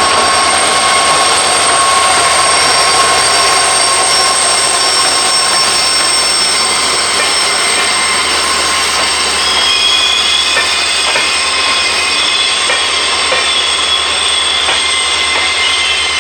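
Express train of ICF passenger coaches running at speed: a loud, steady rumble and rattle of wheels and coach. High, thin squealing tones join in after about ten seconds.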